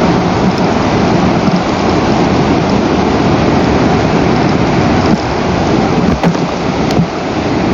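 Loud, steady rushing noise on the nest camera's outdoor microphone, with a couple of faint knocks near the end.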